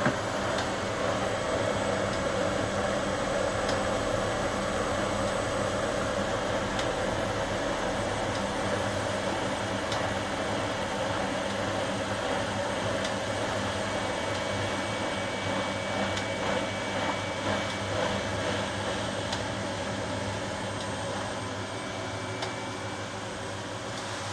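HUWA Automatic Standard 4 washing machine running with a steady whirring hum, with a few faint clicks; it eases off a little near the end.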